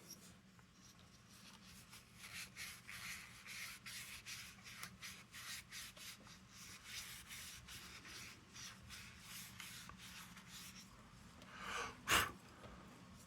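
Faint rhythmic scrubbing strokes, a few a second, on the lantern's metal globe guard as paint is rubbed off it. Near the end there is a single louder clunk.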